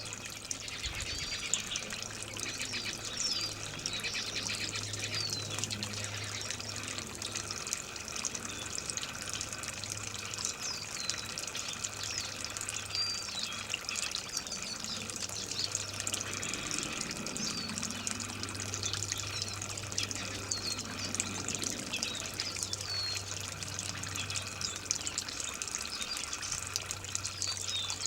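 Water running and trickling steadily, with small wild birds giving short high chirps throughout.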